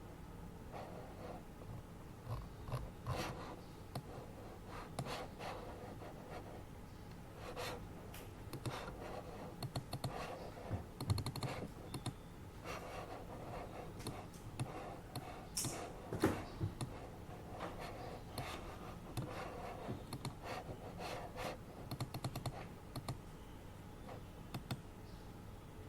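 Typing on a computer keyboard: irregular runs of keystroke clicks over the steady low hum of an air purifier, with one short, sharper swish a little past the middle.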